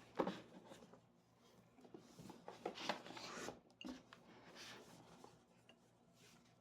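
Hands handling gift-box packaging: a sharp knock about a quarter second in, a stretch of rubbing and rustling in the middle, then another knock.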